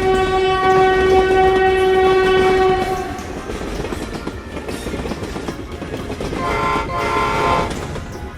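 A train horn sounds one long, steady blast for about three seconds, then the train rumbles and clatters along the rails. A second, shorter horn blast comes near the end.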